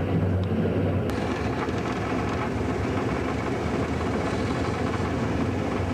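Steam-hauled train running, a steady rumble with no clear beat.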